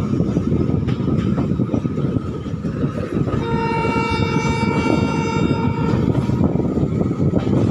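Passenger train running along the track with a steady rumble of wheels on rail. About three seconds in, a locomotive horn sounds one long steady blast lasting close to three seconds.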